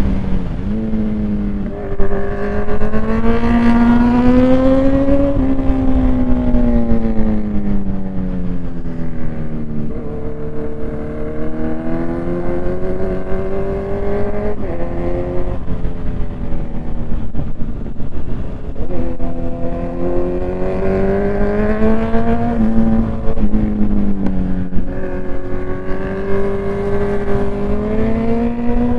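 Motorcycle engine accelerating and easing off through the gears, its pitch climbing and dropping several times, with a steady low rumble of wind underneath.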